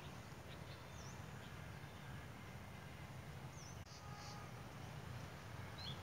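A few short, faint bird chirps, high and quick, spaced a couple of seconds apart over a steady low background rumble.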